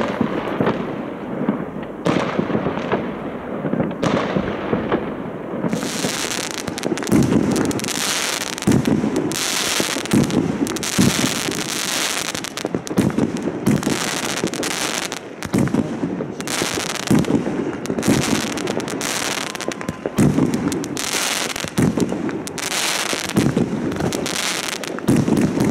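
Fireworks going off all around in a continuous run of bangs and pops. From about six seconds in, louder bursts come roughly once a second, each with a crackling hiss.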